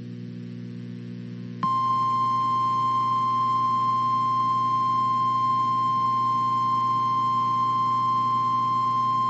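A low steady hum, then about a second and a half in a single steady tone near 1 kHz comes in and holds. This is the NOAA Weather Radio 1050 Hz warning alarm tone, the signal that a warning message is about to be broadcast.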